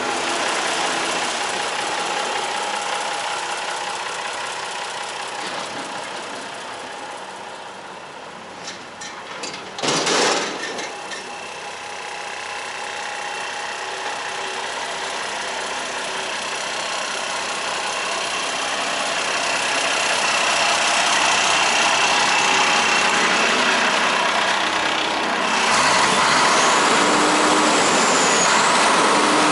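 Iveco Eurotech 240E42 vacuum truck running, its diesel engine at a steady idle. About ten seconds in there is a short, loud burst of hiss. The sound grows louder through the second half, and near the end a change brings in tones that glide up and down.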